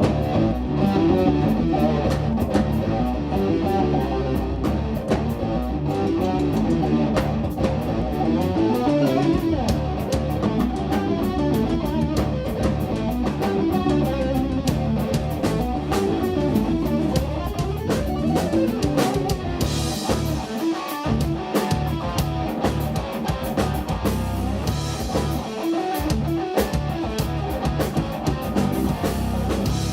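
Live instrumental metal band playing: distorted electric guitar, bass and drum kit, with busy drum hits throughout.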